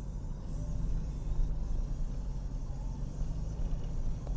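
Moving car heard from inside the cabin: steady low road rumble with an even engine hum.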